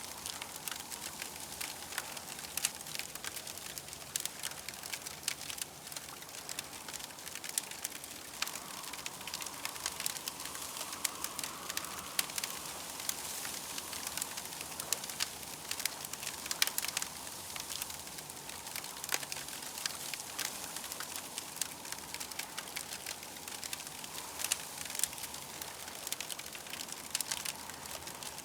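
Campfire crackling, with irregular sharp pops and snaps over a steady hiss.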